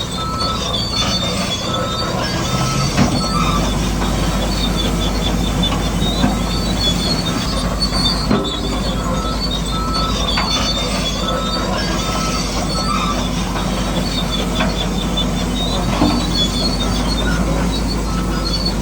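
Crawler bulldozer working: its diesel engine runs with a steady low drone while the steel tracks squeal and clank.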